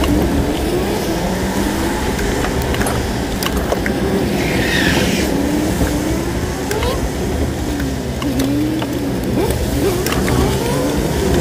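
Car engine revving hard and easing off again and again, its pitch repeatedly climbing and dropping as the car accelerates and slows through a tight autoslalom cone course. There is a brief high squeal about five seconds in.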